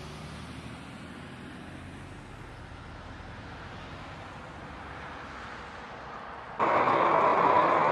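Steady vehicle engine hum and road noise as picked up by a dashcam. About six and a half seconds in it jumps abruptly to a much louder, steady rushing noise.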